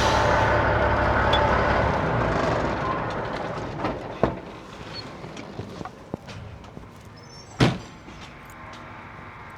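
Heavy truck at a truck wash: a rush of noise and low rumble fade away over the first couple of seconds. Then come a few sharp knocks, the loudest about three-quarters of the way through.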